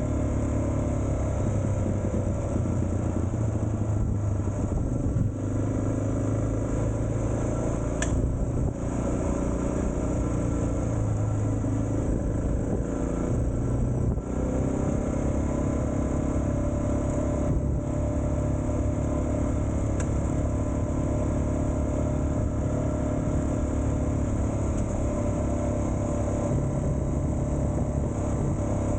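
Suzuki DR650's single-cylinder four-stroke engine running while riding, its pitch shifting a few times with throttle and gear changes.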